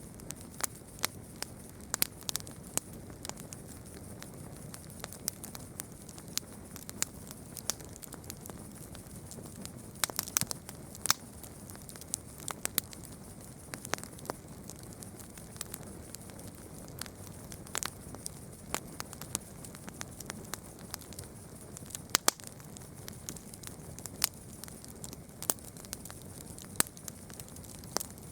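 Campfire crackling: irregular sharp pops and snaps of burning wood, some in quick clusters, over a steady low rush of the flames.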